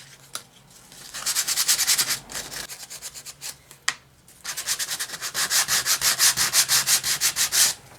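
Very fine grit sandpaper rubbed by hand back and forth over a painted wooden cutout, in quick even strokes several times a second. It comes in two spells, separated by a short pause and a light tap about midway.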